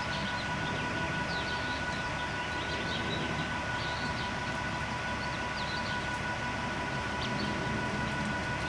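A steady two-note mechanical whine with a low rumble under it, and small birds chirping in quick short notes over the top.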